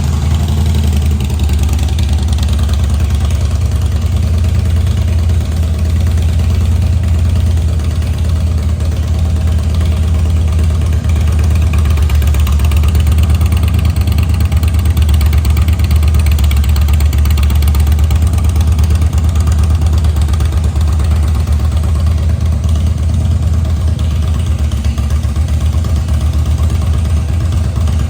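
2008 Harley-Davidson Softail Custom's Twin Cam 96B V-twin, with a Stage 1 air cleaner and Cobra exhaust, idling steadily just after starting, loud and deep.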